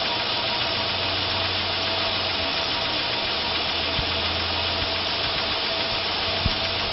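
1999 Chevrolet Silverado's 5.3-litre V8 idling steadily, with a couple of short knocks near the end.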